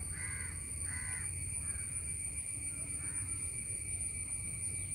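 Bird calls: several short calls in about the first two seconds and a fainter one near three seconds, over a steady low rumble.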